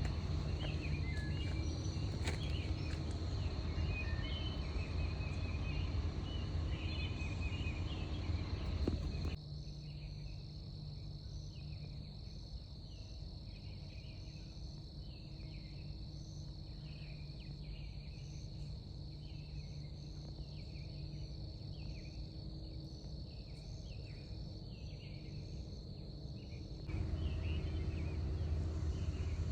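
Insects trilling steadily on one high note, with a run of short repeated chirps beneath. A low rumble runs under it for the first nine seconds, stops abruptly, and comes back near the end.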